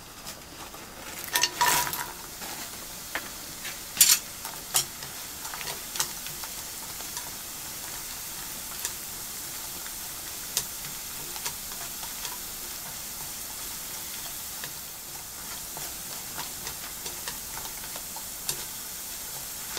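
Dried rice-bread crust strips frying in grapeseed oil in a frying pan over low heat, a steady sizzle throughout. Sharp taps of wooden chopsticks against the pan and the strips come several times in the first six seconds, then now and then.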